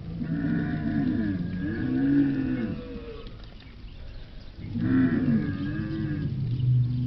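Cow mooing: two long, drawn-out moos, the second starting about halfway through and still going at the end.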